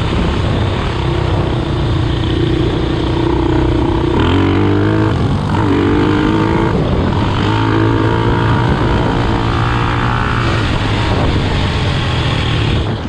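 Single-cylinder 450 cc four-stroke off-road engine revving hard under load, its pitch climbing and falling several times as the machine accelerates and shifts.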